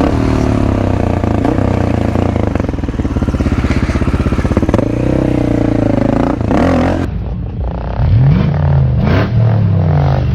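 Motorcycle engines running and revving, the pitch rising and falling as the throttle is worked. Near the end the sound changes abruptly, and a few quick rising revs follow.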